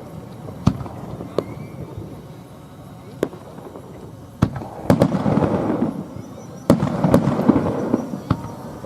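Aerial fireworks bursting: a few single sharp bangs spaced a second or more apart, then from about halfway a denser run of louder bangs, each followed by a rumbling echo.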